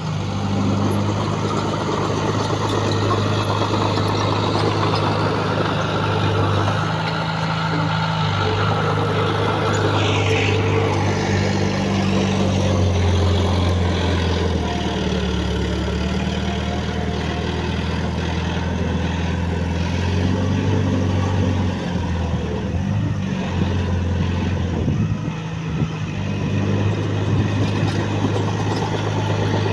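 Heavy earthmoving machine's diesel engine running, its pitch shifting up and down several times as the load changes, with a brief falling whine about ten seconds in.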